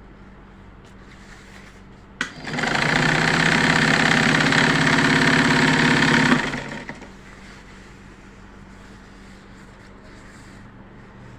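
Butterfly sewing machine test-stitching after its thread tension has been reset: a click, then about four seconds of steady, even running that winds down to a stop.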